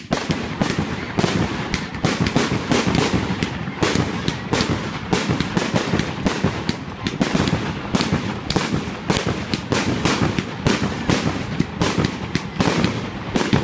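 Fireworks going off at close range: a dense, continuous string of bangs and crackles, several a second, without a break.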